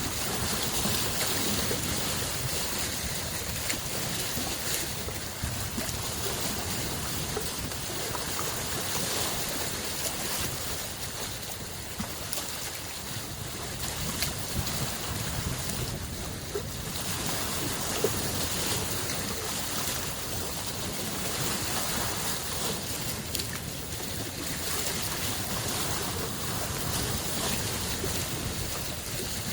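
Small lake waves washing against the shore in a continuous noisy wash, gently swelling and easing.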